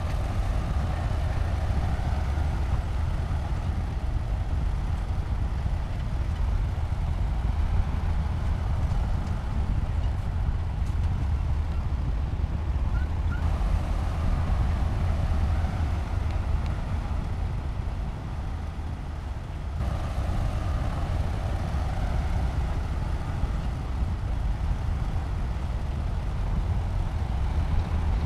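Heavy diesel engine of earthmoving machinery running steadily with a deep rumble, its note rising and falling with the load, easing briefly about two-thirds of the way through.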